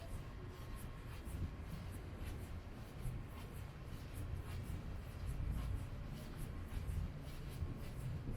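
Footsteps on wet pavement, a light scuffing tick about twice a second at a walking pace, over a steady low rumble.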